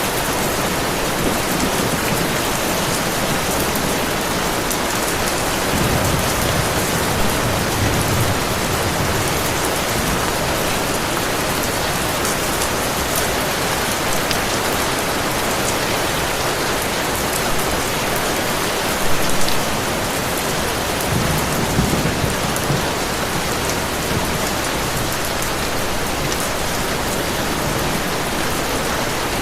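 Steady heavy rain, with low rumbles of thunder swelling about six seconds in and again around twenty-one seconds.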